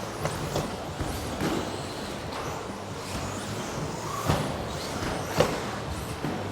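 Electric RC racing trucks with modified brushless motors running laps, their motor whine sweeping up and down as they pass, with a few sharp knocks, the loudest about four and five seconds in.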